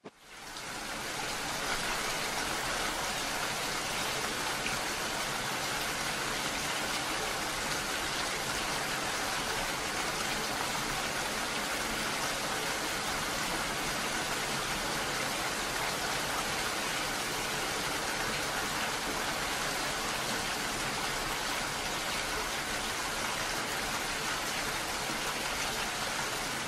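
Heavy rain falling steadily: a dense, even hiss that swells up in the first second or so and then holds.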